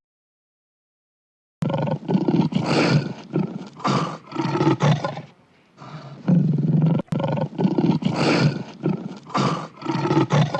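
A big cat roaring and grunting in a run of short, rough, pulsing calls, beginning after about a second and a half of silence; the same roaring sequence plays twice, each time for about four seconds.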